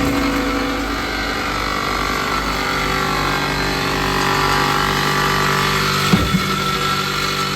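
A machine engine running steadily, with a higher whine that drifts up and down in pitch, and two short knocks about six seconds in.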